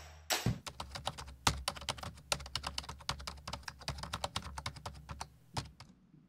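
Fast typing on a Keychron K3 low-profile mechanical keyboard with Gateron Red switches: a quick run of key clicks over a low hum, stopping about five and a half seconds in.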